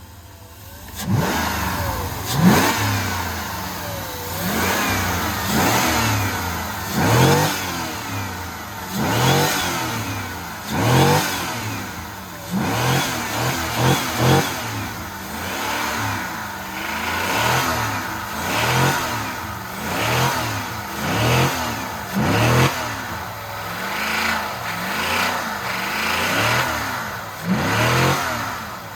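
Jeep engine with no oil in it being revved over and over, about one rev every one and a half to two seconds, starting about a second in, while it is run until it fails.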